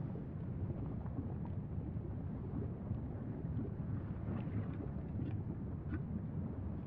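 Wind buffeting the microphone, a steady low rumble, with a few faint crackles about two-thirds of the way through.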